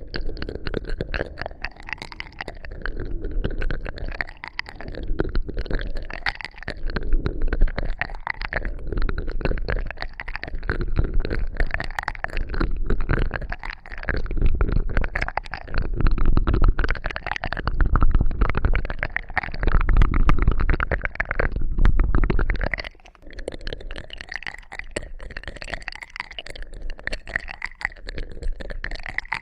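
Close-miked ear-cleaning sounds for ASMR: dense crackling, rubbing and scratching right on the microphone, swelling and fading every second or two with a deep rumble underneath, easing off for a moment near the end.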